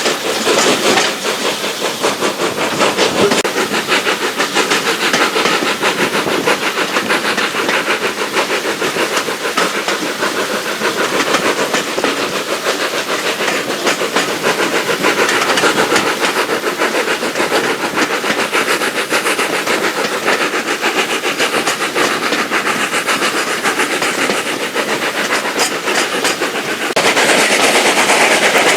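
Steam train running, a fast rapid beat over rail noise and a hiss of steam; it grows louder and brighter near the end.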